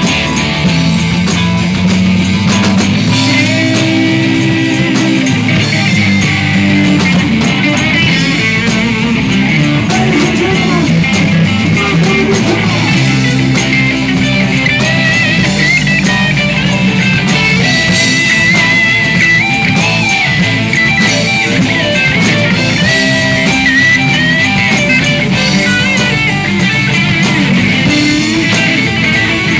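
Live rock band playing an instrumental passage, with guitar over bass and drum kit. A bending lead line comes in from about the middle onward.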